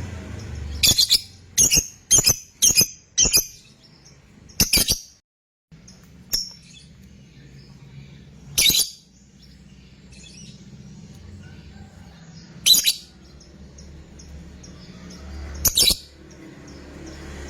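Lovebird giving short, shrill chirps: a quick run of about six in the first few seconds, then single calls every few seconds.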